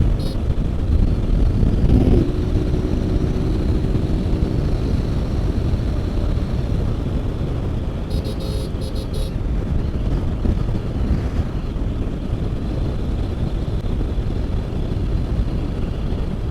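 Motorcycle riding at speed on a highway: a steady low rumble of engine, road and wind on the microphone.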